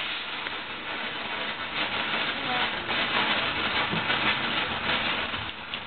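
A ground firework burning with a steady hiss and faint crackling.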